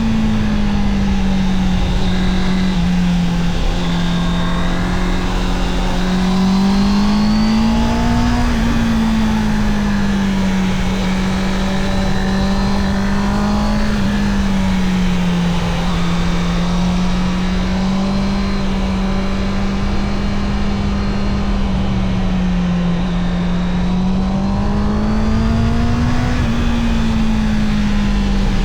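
Honda CB650R's inline-four engine running under way at a fairly steady pitch, rising and falling gently a few times as the throttle is opened and eased.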